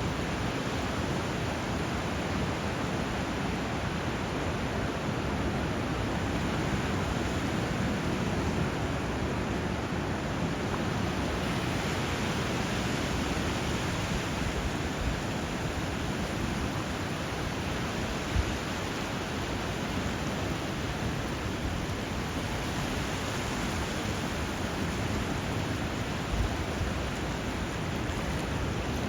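Steady, even rush of water where a river flows into the sea, with no birds heard. A few brief low thumps stand out, one near the middle and another near the end.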